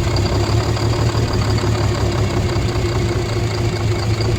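Big truck's old diesel engine being cranked over on the starter with the throttle pedal floored, a steady drone that does not yet catch and run: a hard cold start after long sitting.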